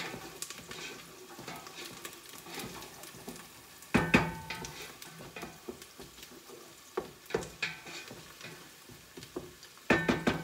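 Onions and garlic sizzling in oil in a stainless steel stockpot while a wooden spoon stirs and scrapes them, with many small clicks. There are two louder clatters, about four seconds in and near the end.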